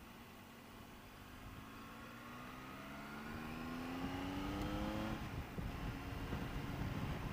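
Triumph Tiger 800 motorcycle's three-cylinder engine accelerating, its pitch rising steadily for about five seconds before dropping sharply at an upshift, then a low rumble of wind and road noise as speed builds.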